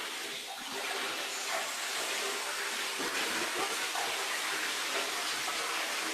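Shower running: a steady hiss of spraying water, played as a recorded sound effect.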